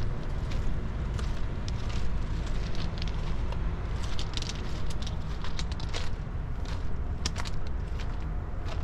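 Steady low rumble with many short, irregular crackles and clicks over it.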